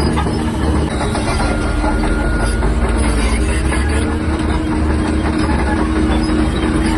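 Shantui DH17-C3 crawler bulldozer working: its diesel engine runs steadily under load while the steel tracks clank and rattle.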